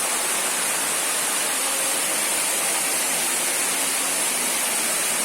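Steady rushing of river water at a waterfall, an even hiss with no breaks.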